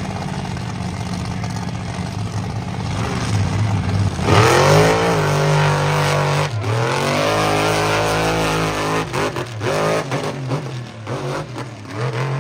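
Monster truck's supercharged V8 engine revving hard: it climbs sharply about four seconds in and holds high for several seconds, then a string of short throttle blips near the end.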